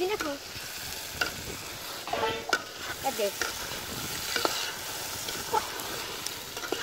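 Chopped cow brain sizzling in oil in an aluminium pot over a wood fire while a metal spoon stirs it, clicking and scraping against the pot now and then over a steady hiss.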